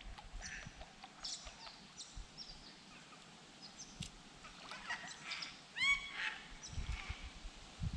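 Birds calling: scattered short, high chirps and descending whistles, with one louder honking call near six seconds in.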